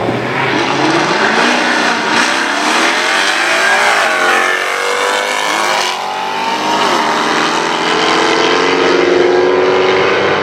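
Straight-piped Mercedes C63 AMG V8 driven hard at high revs, the engine note rising and falling several times and then held high and steady near the end.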